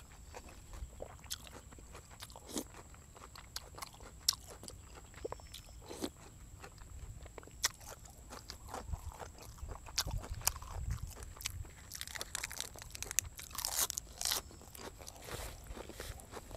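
A person chewing food close to the microphone, wet chewing and lip smacks with scattered sharp clicks. It grows louder and busier for a couple of seconds after the middle.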